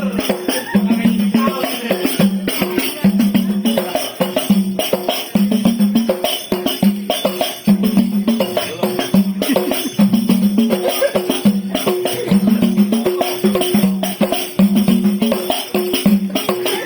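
Traditional percussion-led music accompanying a pencak silat bout: hand drums with a jingling rattle, a low beat falling roughly every second, and a held tone through the middle.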